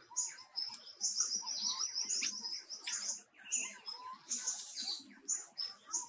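Birds chirping: short high chirps repeating about twice a second, a fast trill lasting about two seconds, and a whistled note that slides up and back down. A short hissing burst comes about four and a half seconds in.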